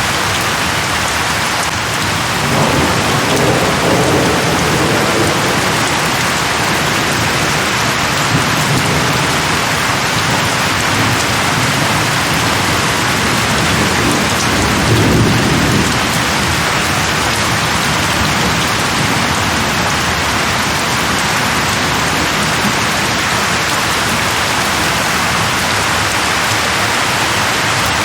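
Steady rain falling on leaves, with low rolls of thunder rumbling in about three seconds in and again around halfway.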